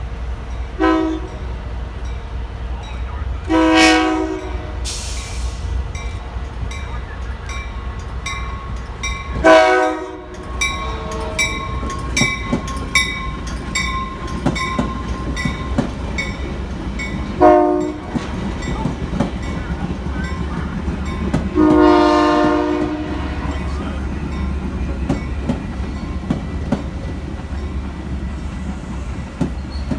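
Metra commuter train's locomotive horn sounding a series of blasts: a brief toot, then long, long, short, long, the grade-crossing signal. Under it runs the steady rumble of the passing train, with a bell ringing steadily.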